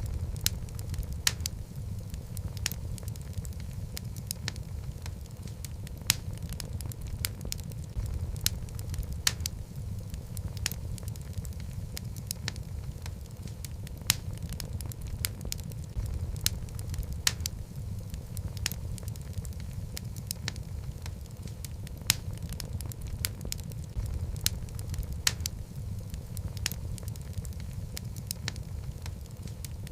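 Logs burning in a fireplace: a steady low rumble of flame with frequent, irregular sharp crackles and pops from the burning wood.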